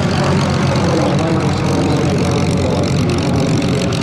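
Aircraft engine running, a loud steady drone with a low rumble underneath.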